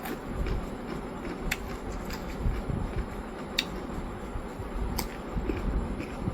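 Close-up eating of noodles: chewing sounds with three sharp clicks spaced a second or two apart.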